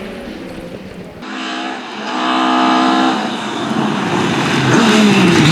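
Historic Ford Escort Mk II rally car at full throttle, its engine note climbing and then dropping in pitch as it passes by.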